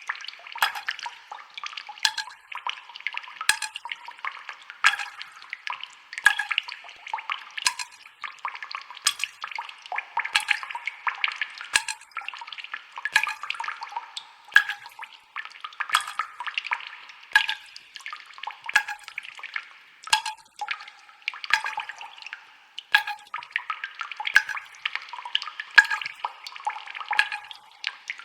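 Water trickling and dripping, a steady bubbling patter broken by sharp little splashes about once or twice a second.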